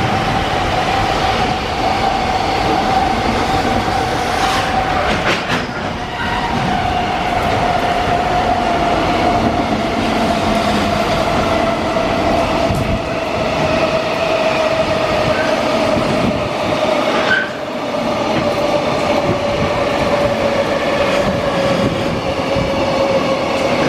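JR Freight freight train of Koki container wagons hauled by an EF210 electric locomotive, running through a station. The wheels rumble and click over the rails, and a steady ringing tone slowly drops in pitch.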